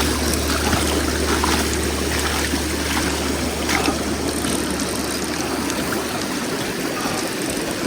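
Small mountain creek rushing steadily over rocks, a continuous water noise.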